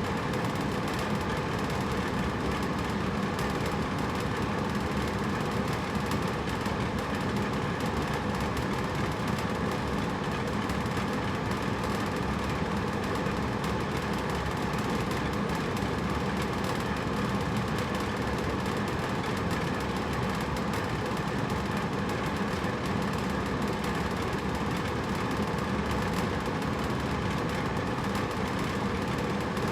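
Hotel room air conditioner running steadily: an even rush of air with a low hum, unchanging throughout.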